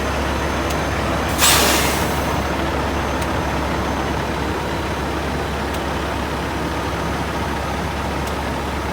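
Heavy truck engine running with a steady low rumble; about a second and a half in, a sharp hiss of air brakes being released.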